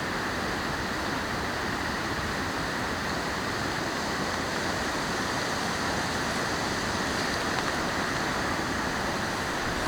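A steady, even rushing noise with no separate events, like the wash of rain or wind in trees.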